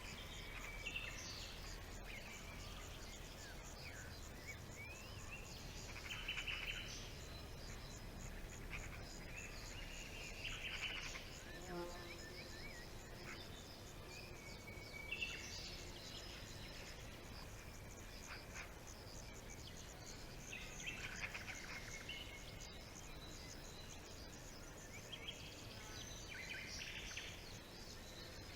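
Forest birdsong: several birds singing short chirping phrases every few seconds over a steady background of insects trilling.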